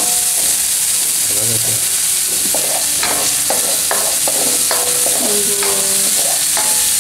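Spice paste frying in hot oil in a wok, sizzling steadily, while a spatula stirs it and scrapes the pan in short repeated strokes, about two a second after the first couple of seconds.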